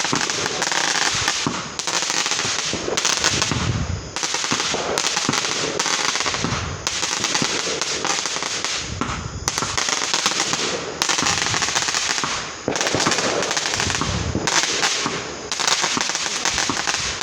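Fireworks going off in a dense, unbroken barrage of rapid crackles and pops, with deeper booms several times.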